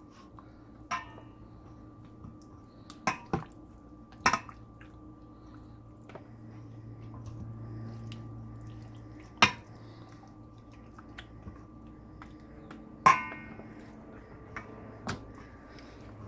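Hands massaging chicken pieces in a spice-and-yogurt marinade in a bowl: scattered clinks and knocks against the bowl, the loudest about nine and thirteen seconds in, the second one ringing briefly. A low steady hum runs underneath.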